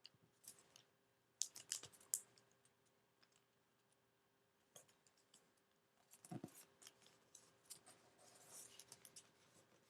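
Paper being folded and creased by hand: soft crinkles, taps and rustles of origami paper, in short clusters.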